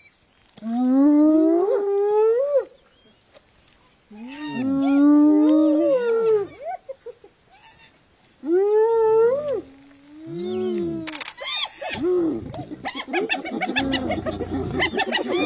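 Spotted hyenas calling: several long pitched calls, each rising and bending in pitch over one to two seconds with short pauses between. Near the end they give way to a fast, continuous run of short repeated cackling calls.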